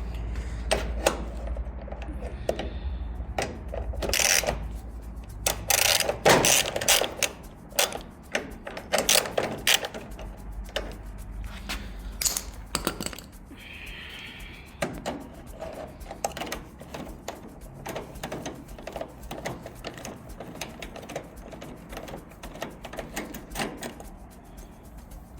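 Irregular clicks, taps and knocks of hand work on a crash-damaged car's front end while a headlight is taken out, with a steady low rumble under the first several seconds.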